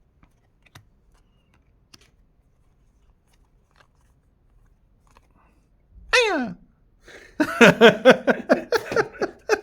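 A man's good-luck vocal sound, made before turning over a card: one voiced call falling steeply in pitch about six seconds in, then a fast string of short repeated vocal bursts, about five a second, near the end. Before that, only faint ticks of card handling.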